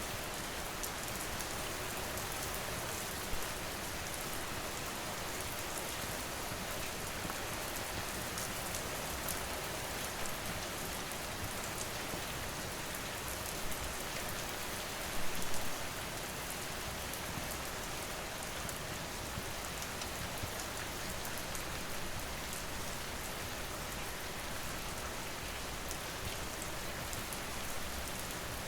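Steady rain falling, with scattered small crackles of a wood fire and a brief cluster of louder pops about halfway through.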